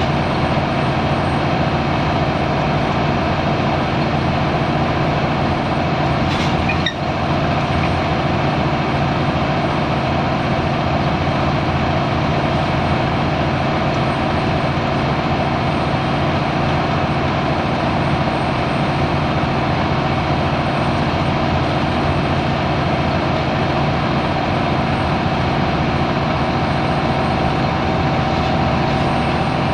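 Scania L94UB Wright Solar single-deck bus's diesel engine running steadily under way, with a steady whine over the engine note. A brief click about seven seconds in.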